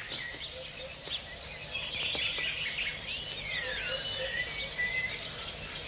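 Birds calling: a chatter of short clicks with several sliding whistles, some falling and some rising and then holding level, from about two seconds in.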